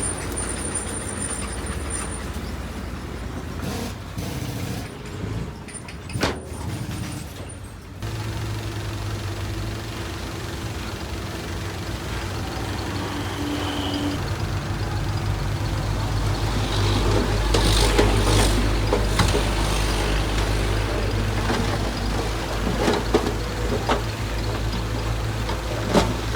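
Heavy diesel engine of a dump truck or bulldozer running. A steady low drone begins about a third of the way in and grows louder, with a few knocks and clanks near the end.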